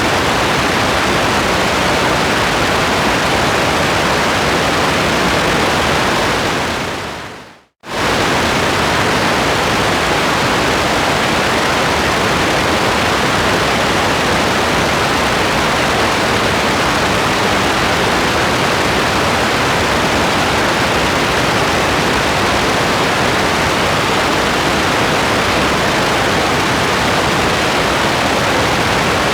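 Steady, dense rain ambience: an even hiss with no separate drops or rhythm. A little past six seconds in it fades quickly to silence, then cuts back in abruptly at full level about eight seconds in, like a loop restarting.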